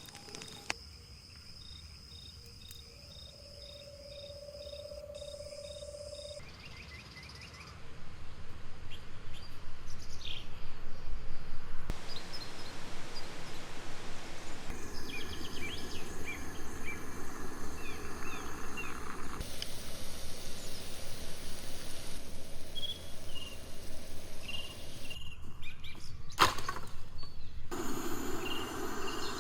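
Forest ambience with birds chirping and calling over a steady background noise. The background changes abruptly several times, as if short clips are cut together, and grows louder about eight seconds in.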